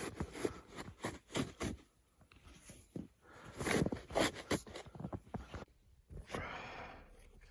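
Snow being shovelled: irregular scrapes and crunches of a shovel in snow, with a longer scrape about halfway through.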